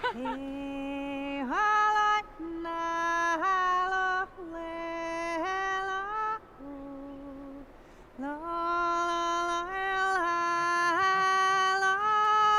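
Soundtrack song: a woman singing long held notes that step up and down in pitch, with short breaks between phrases.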